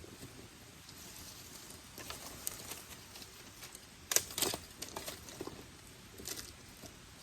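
Dry twigs and leaves crackling and rustling in a few scattered, irregular snaps, the loudest a close pair about four seconds in.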